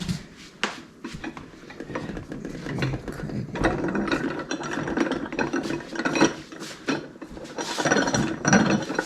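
Hand-cranked sausage stuffer being worked, its gears clicking and grinding as the crank turns, building up from about two seconds in.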